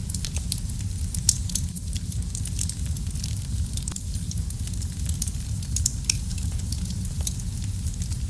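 Wood fire burning in a fireplace: a steady low rumble of the flames with frequent irregular sharp crackles and pops, one louder pop about a second in.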